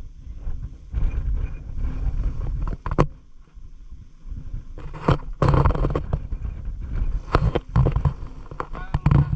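Water splashing and sloshing in a shallow ditch as a fishing net is worked through it, with a few sharp knocks. Wind rumbles on the microphone.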